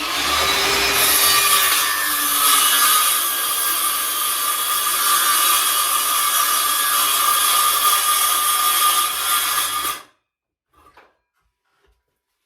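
Electric saw cutting through timber, running steadily with a whine for about ten seconds, then stopping abruptly.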